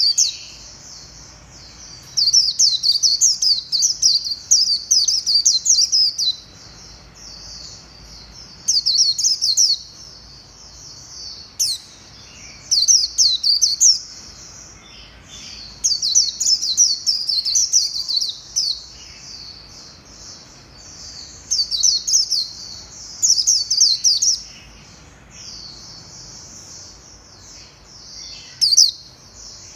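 White-eye (vành khuyên) singing: rapid, high twittering song phrases, each lasting one to four seconds, repeated again and again with short pauses between.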